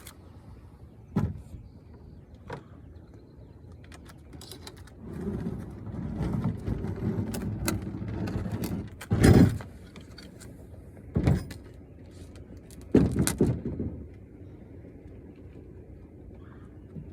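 A 53 lb kayak being handled on a car: a couple of light knocks, then a few seconds of rubbing and sliding noise as the hull drags over a furniture blanket, followed by several heavy thuds as it is shifted and set down.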